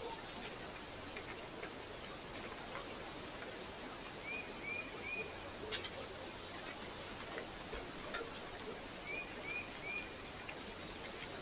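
A small bird at a feeder chirping in short, quick groups of three, about four seconds in and again near the end. Scattered small clicks and a steady background hiss run under the calls, with one sharper tick about halfway through.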